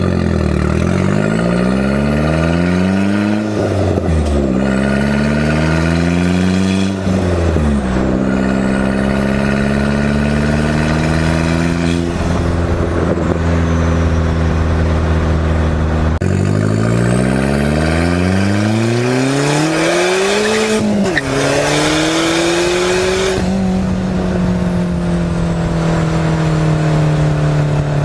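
Turbocharged 1.8-litre four-cylinder engine of a 2002 VW Jetta, with an open downpipe cutout, pulling hard through the gears. The exhaust note climbs in several rising pulls and drops abruptly at each gear change, with stretches of steady cruising in between. A faint high turbo whistle rises with the revs.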